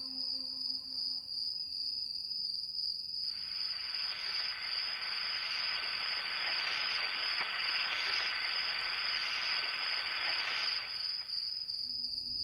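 Crickets trilling in a steady high chorus. A rushing hiss, like a gust of wind, swells in after about three seconds and fades away near the end.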